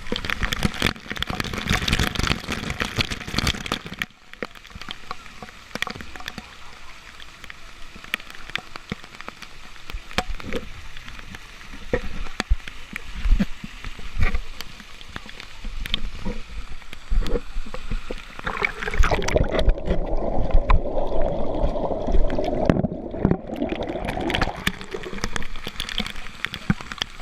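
Waterfall water rushing and splashing, louder in the first few seconds, with scattered sharp clicks.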